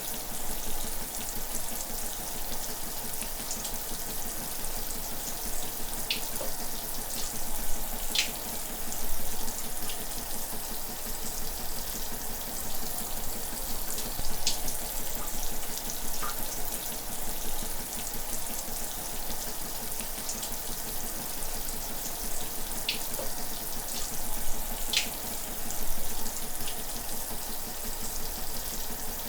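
Running shower water: a steady hiss of spray with now and then a brief louder splash.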